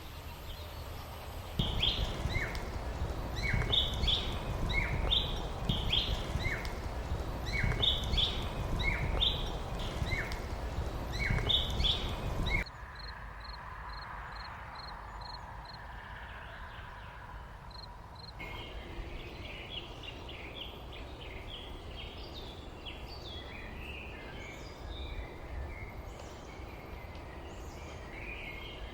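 Songbirds calling in the countryside, in three stretches. The first is one bird repeating the same short phrase about once a second, each a couple of high notes and then a falling note, over a low rumble. After a sudden change about halfway in come a quick run of high pips, then busy mixed chirping.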